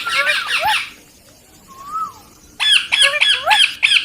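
Young ringneck parakeet calling: a quick run of sharp squawks, a single short rising-and-falling whistle, then another quick run of squawks.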